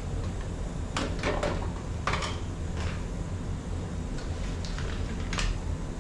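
A few short clicks and knocks of handling over a steady low hum, as salt water is added to the steam humidifier.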